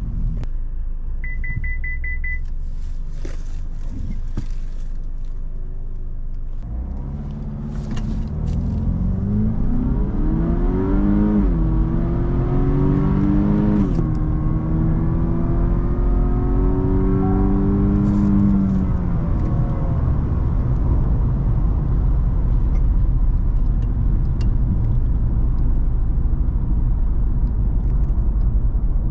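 Cadillac CTS's 3.6-litre twin-turbo V6 accelerating hard through the gears. The engine pitch climbs from about seven seconds in, drops at an upshift, climbs and drops at a second shift, holds, then eases off into steady low road and tyre rumble. A quick string of beeps sounds about a second in.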